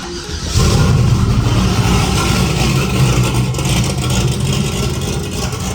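Turbocharged LS V8 engine of a Camaro IROC running, getting much louder about half a second in and then holding steady.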